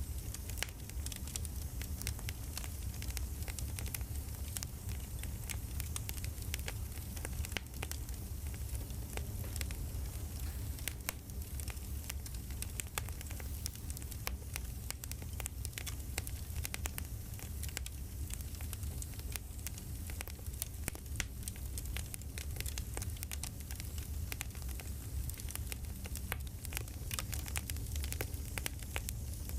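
Campfire crackling: a steady low rumble of burning with frequent, irregular sharp pops and snaps.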